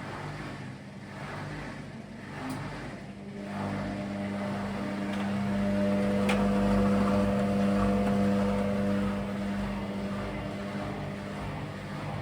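Indesit Innex washing machine on its spin cycle, making the loud noise it has developed: a steady mechanical hum that builds up about three seconds in, is loudest in the middle, then eases slightly.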